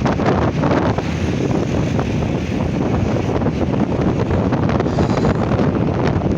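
Steady, loud wind rushing over the microphone on a moving motorcycle, with vehicle and road noise underneath.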